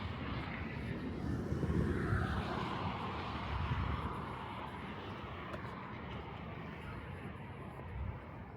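A vehicle passing by, growing louder about a second and a half in, then dropping in pitch and fading away.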